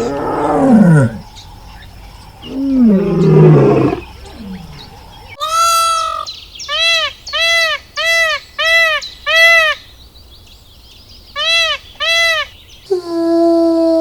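Two loud, deep roars falling in pitch, typical of a lion, then a series of short high-pitched arching calls from another animal, about two a second with a pause before the last two.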